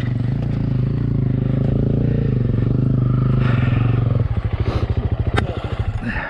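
Dirt bike engine holding steady revs, then dropping back about four seconds in to a slower, pulsing low-rev beat. A single sharp click comes near the end.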